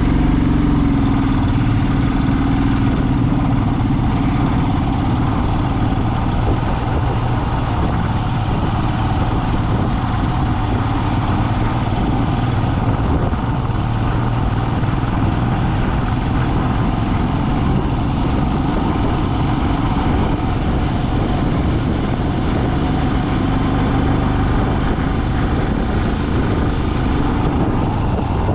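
A vehicle engine running steadily under way, with a low rumble throughout. Its note drops just after the start, as the revs come down.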